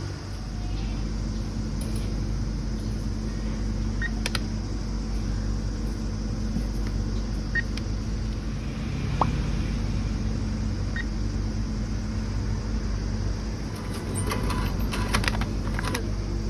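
Cash machine in use: a few short beeps several seconds apart from the ATM keypad over a steady low hum, then a cluster of clicks and rattles near the end.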